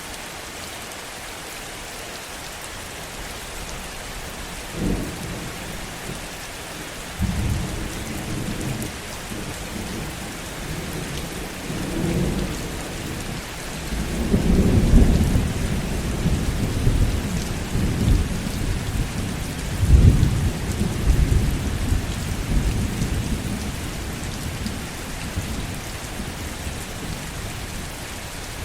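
Steady heavy rain with a long roll of thunder. A first crack comes about five seconds in, then rumbles build to their loudest around the middle and die away near the end.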